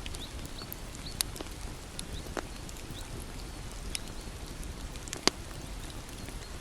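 Bonfire burning with a low, steady rumble and irregular sharp crackles and pops, the loudest about five seconds in.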